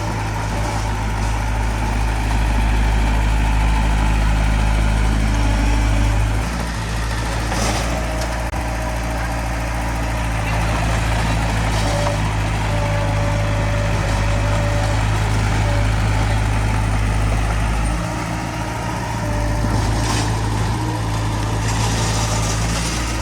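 Heavy diesel engine of earthmoving machinery running steadily. Its level drops briefly about six seconds in and again near eighteen seconds, and there are a couple of short noisy bursts, one near the eighth second and one about twenty seconds in.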